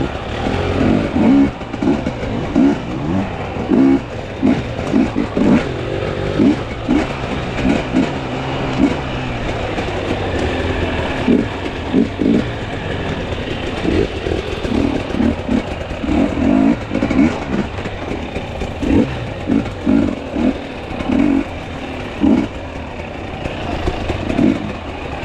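Two-stroke enduro dirt bike engine revving in short bursts on and off the throttle while riding a trail, the revs surging and dropping again and again.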